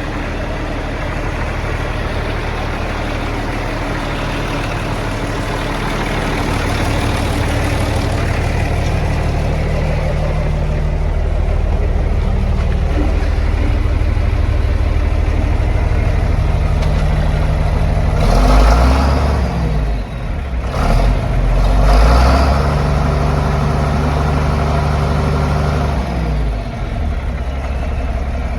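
John Deere 4430's six-cylinder turbo diesel running after a cold start, first idling steadily. About two-thirds of the way through it is revved up, dips briefly, holds a higher speed for a few seconds, then drops back to idle near the end.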